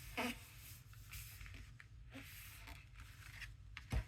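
Paper being handled at a craft table: light rustling and small taps, with a soft thump near the end.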